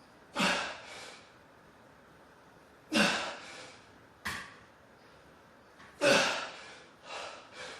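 A man's strained, forceful exhalations while doing pull-ups, three loud ones about three seconds apart, each falling in pitch, with a quick sharp breath between and softer panting near the end.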